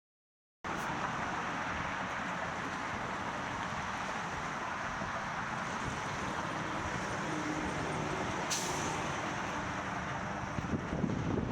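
Onboard sound of a Harley-Davidson touring motorcycle with a 130 ci Milwaukee-Eight V-twin and ThunderHeader exhaust: steady engine and wind noise that cuts in suddenly just under a second in, with some rougher surges from the engine near the end.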